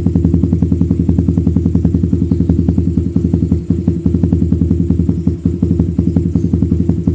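Suzuki Satria FU's 150cc single-cylinder four-stroke engine idling steadily through a Lone Rider racing exhaust, with about ten even exhaust pulses a second.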